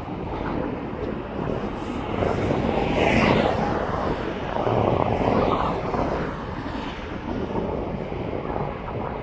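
Airplane passing, its engine noise swelling about two seconds in and fading after about six seconds.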